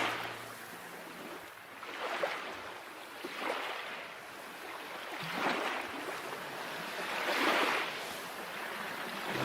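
Small waves washing in, a hissing rush of water that swells and fades about every two seconds.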